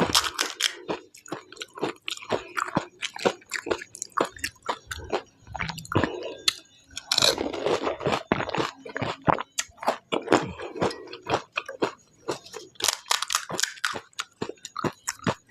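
Close-miked crunching and chewing of pani puri: crisp hollow puris crackling rapidly between the teeth, mixed with wet chewing of the spiced potato filling and mint-coriander water.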